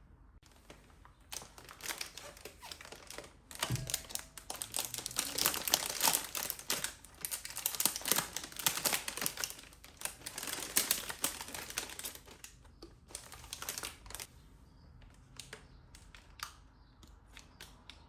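Rapid rustling, crinkling and clicking of kitchen handling, which begins about a second in, is busiest in the middle and thins to a few scattered clicks after about fourteen seconds.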